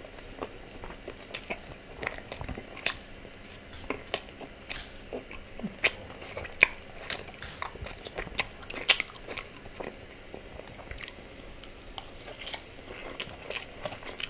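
Close-miked chewing of soft fried plantain and spaghetti: wet smacks and clicks of the mouth at irregular intervals, a few of them louder than the rest.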